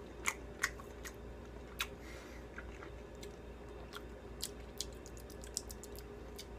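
A mouth chewing a plant-based chicken strip (Beyond Meat Beyond Chicken, soy and pea protein): faint, irregular wet clicks of the mouth and teeth, over a low steady hum.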